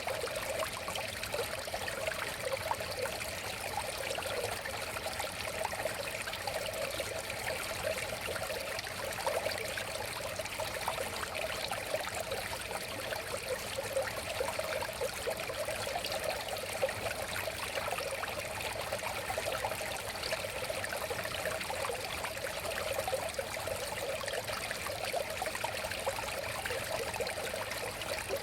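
River water flowing and babbling over stones: a steady rushing with a trickling, gurgling texture.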